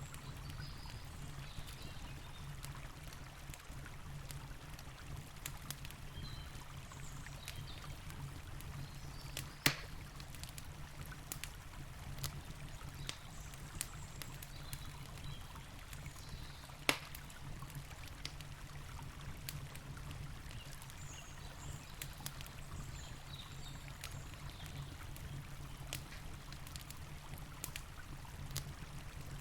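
Campfire crackling with scattered pops over the steady rush of a river, with two louder snaps, about ten and seventeen seconds in.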